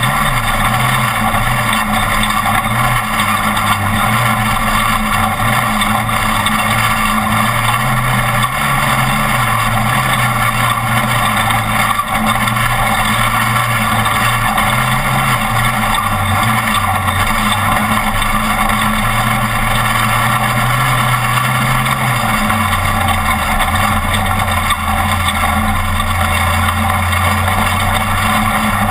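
Off-road race truck's engine running under load, with a steady rushing noise over it. The engine note wavers up and down, then drops about two-thirds of the way through and holds lower.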